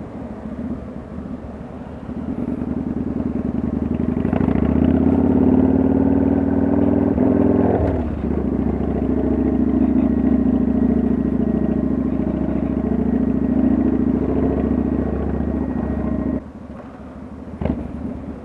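Kawasaki Vulcan 900's V-twin engine running under way, pulling up through the revs with a gear change about eight seconds in. The engine note drops away abruptly near the end.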